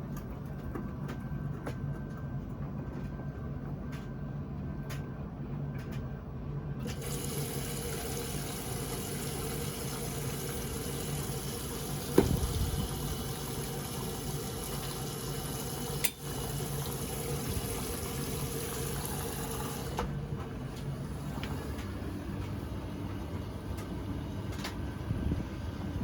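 Beko washing machine drawing in water: a steady rush of water starts about seven seconds in and stops abruptly near twenty seconds, over a steady low machine hum. A few light clicks come before the water starts, and one sharp click comes midway.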